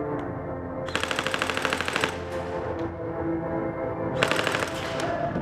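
Airsoft rifle firing two full-auto bursts: a rapid string of shots lasting about a second, then a shorter one about three seconds later. Music plays underneath.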